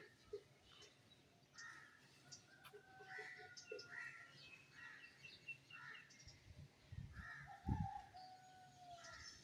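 Several birds calling faintly: short chirps, a quick run of short repeated notes and a few longer whistled notes, with a couple of dull thumps.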